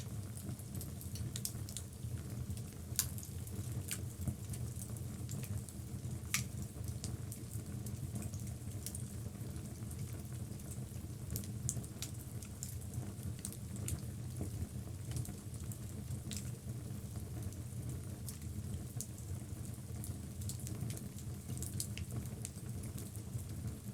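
Wood logs burning in a fireplace: a steady low rumble of the fire under scattered sharp crackles and pops, with a few louder snaps in the first six seconds.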